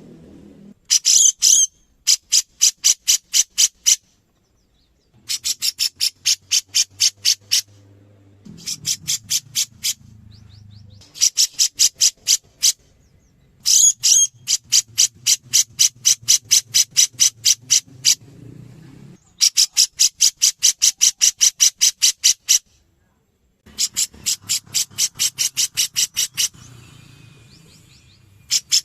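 Grey-cheeked bulbul (cucak jenggot) calling in runs of rapid, evenly spaced high chips, about eight to ten a second, each run lasting one to three seconds with short pauses between.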